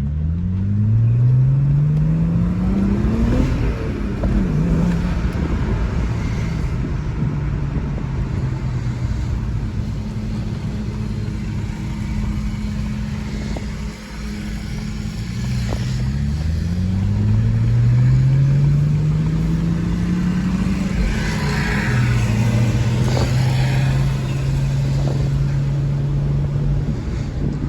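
BMW 335xi's N54 twin-turbo 3.0-litre inline-six, fitted with an Injen cold air intake, pulling hard twice under acceleration. The engine note rises through a gear and drops at an upshift a few seconds in. It holds steady, then climbs again through another gear, drops at a second upshift near the end, and settles into a steady cruise.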